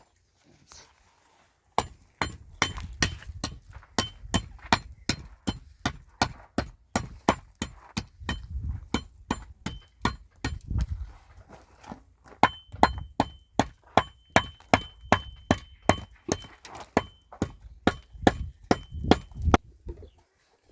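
A fast, even series of sharp strikes, about three a second, with a faint metallic ring under some of them. It starts about two seconds in and stops shortly before the end.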